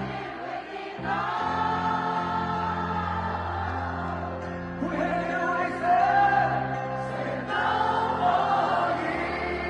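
Live pop concert music: a band with several voices holding long sung notes over sustained chords and bass.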